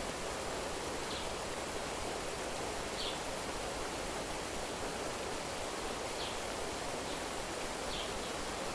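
Steady rushing of flowing water, like a stream, with a few faint, short, high chirps every couple of seconds.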